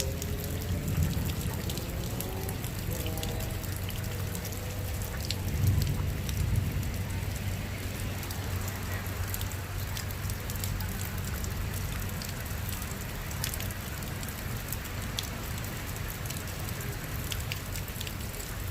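Steady rain falling, with many individual drops ticking sharply close by. A low rumble swells briefly about six seconds in.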